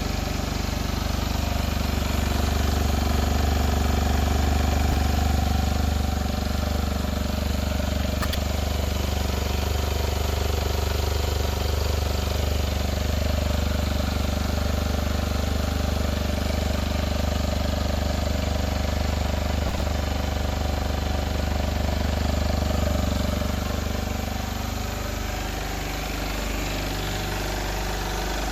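Kawasaki Ninja 125's 125cc liquid-cooled single-cylinder engine idling steadily through its exhaust, settling a little lower and quieter near the end.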